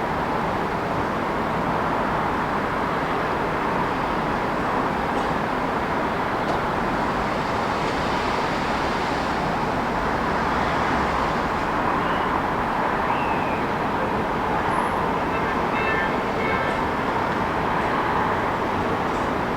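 Steady city traffic noise: a continuous wash of passing cars with no single vehicle standing out, and a few faint high chirps in the second half.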